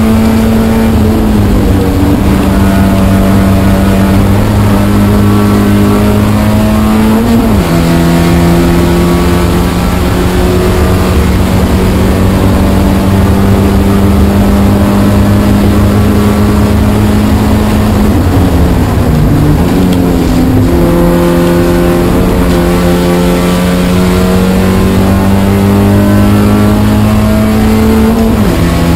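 Spec Miata's inline-four engine heard from inside the car, running hard at high revs on track. Its pitch climbs steadily under acceleration and drops with an upshift about seven seconds in and again near the end. Around eighteen to twenty seconds in the note dips, wavers and jumps back up as the car brakes and downshifts.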